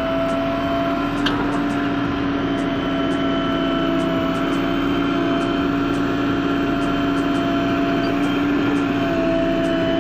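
A small DC motor running with a steady whine.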